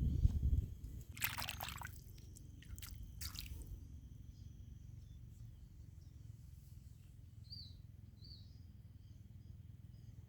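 Water splashing and dripping in two short spells, then two short high bird chirps, over a low steady rumble that is loudest in the first second.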